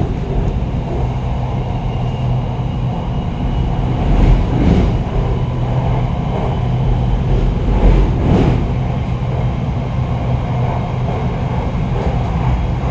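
Red Line electric commuter train running: a steady low electric hum over a continuous rumble, with a couple of brief louder thumps about four and eight seconds in.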